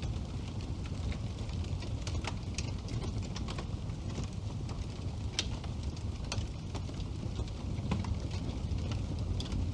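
Wood fire burning in a fireplace: a steady low rumble with irregular sharp crackles and pops, the loudest pop about five seconds in.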